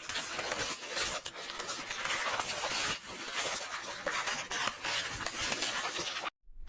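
Paper pages of a book turning and rustling, a dense crackle of small crisp clicks and scrapes. It cuts out suddenly for a moment near the end.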